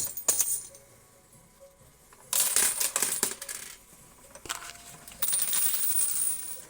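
Quarters clinking and clattering against each other and the metal of a coin pusher machine, in three rushes: a short one at the start, then after a lull of about two seconds a longer one, and another near the end.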